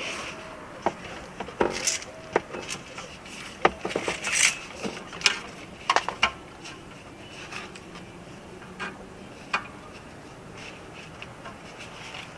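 Handbrake cable end and its metal bracket clicking, clinking and rubbing as the cable nipple is worked into the bracket at the rear brake caliper. The clicks come thick and irregular for the first seven seconds, then thin out, with one sharper knock late on.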